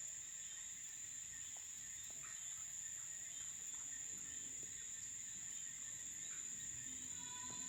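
Crickets chirping in a steady, high-pitched night chorus, with a few faint scattered clicks and chirps beneath.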